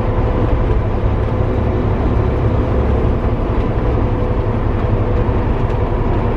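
Steady diesel engine and road noise inside the cab of a Kenworth T660 semi truck cruising on the highway, a constant low rumble with a faint steady hum over it.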